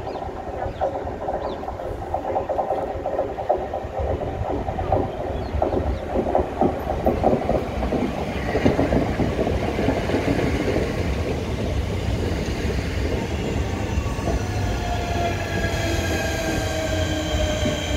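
Two coupled Class 465 Networker electric multiple units pulling into a platform, wheels rumbling and clattering over the rails, with wheel squeal in the first half. Near the end, a whine of several tones falls slowly in pitch as the train slows.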